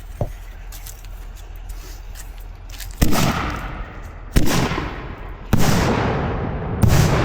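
Fireworks going off: faint scattered pops, then four loud bangs about a second apart in the second half, each trailing off in a long echo.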